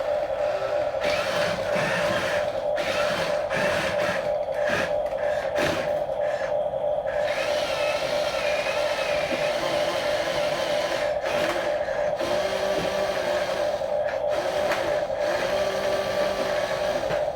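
Small electric motors and plastic gearboxes of a radio-controlled toy bulldozer and dump truck, whining steadily with small changes in pitch.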